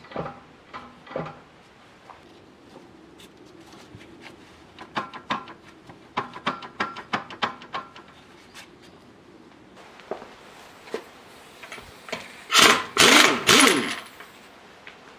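Scattered clicks and knocks of hand-tool work on a car, then a loud burst of about a second and a half near the end.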